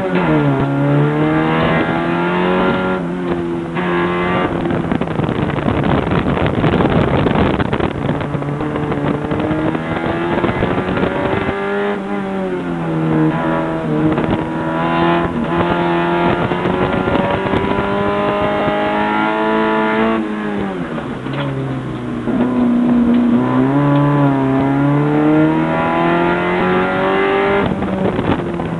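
Car engine driven hard, heard from inside the cabin: it revs up and down repeatedly, its pitch dropping sharply a few times as the throttle is lifted or a gear is changed. Tire noise from cornering is mixed in.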